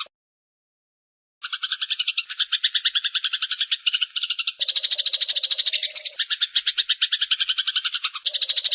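Eurasian tree sparrows fighting: a dense, fast chatter of harsh chirps. It starts about a second and a half in after silence and changes abruptly several times, as if spliced together.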